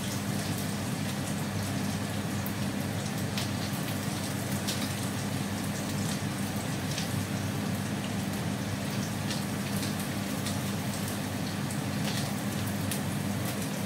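Chopped shallots and garlic frying in hot oil in a wok: a steady sizzle with scattered small crackles and pops, the aromatics being cooked until golden and fragrant.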